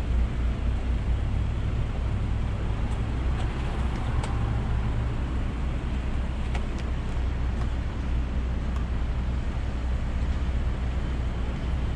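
Idling vehicle engine at close range: a steady low rumble with no change, with a few faint clicks and ticks over it.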